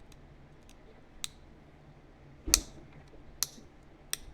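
Heat-treated chert being flintknapped: about four sharp clicks and snaps as flakes come off the stone. The loudest is about two and a half seconds in and has a dull knock under it.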